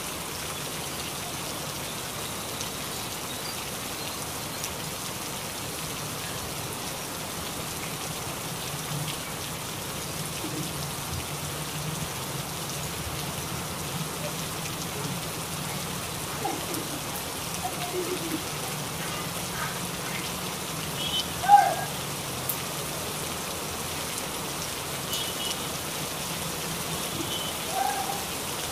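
Steady rain falling, an even hiss. A few short, higher sounds break through in the second half, the loudest a sudden one about two-thirds of the way in.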